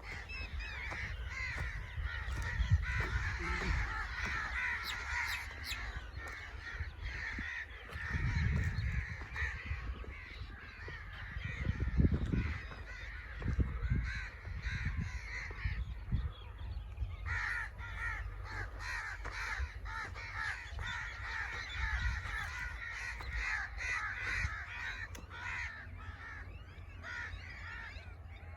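Many crows cawing at once, their calls overlapping into a continuous din that breaks off briefly about two-thirds of the way through. A few low rumbles come in the middle.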